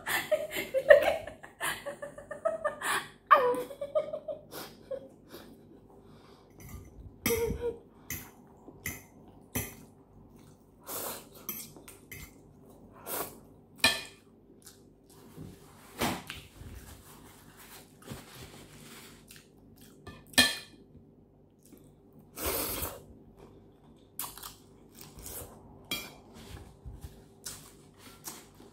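A short laugh at the start, then close-miked chewing and mouth smacking with scattered sharp clicks, and now and then a fork tapping the plate.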